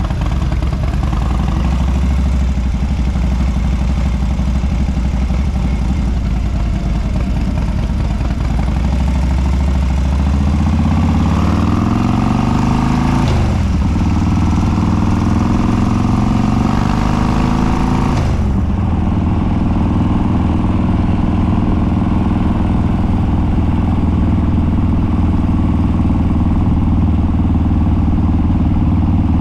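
Harley-Davidson Dyna Street Bob's Twin Cam V-twin through unbaffled straight dual exhaust, running steadily at low revs, then accelerating hard with the pitch rising, two gear changes marked by sudden drops in revs, then holding a steady cruise.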